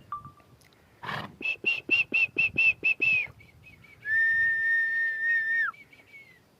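High whistling: a quick run of about nine short notes, then one long steady note that drops in pitch as it cuts off.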